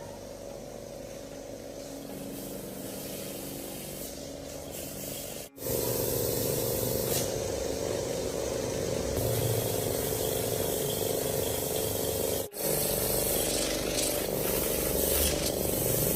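A steady hissing spray that gets louder about five seconds in and breaks off abruptly twice.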